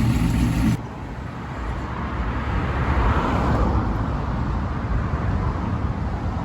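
Car engine idling with a steady deep hum that cuts off abruptly less than a second in, followed by the rumble of a car that swells about three seconds in and then fades.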